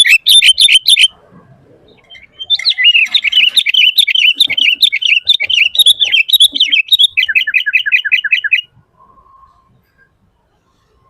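Sooty-headed bulbul singing loudly: a fast run of repeated notes that stops about a second in, then after a short pause a long, varied chattering song that ends in another quick series of repeated notes and stops a few seconds before the end.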